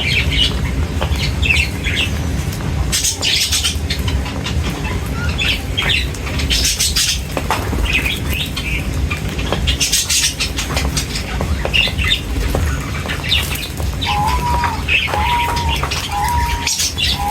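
A flock of small birds chirping and squawking, with short bursts of wing flapping every few seconds, over a steady low rumble. In the last few seconds one bird repeats a short whistled note about once a second.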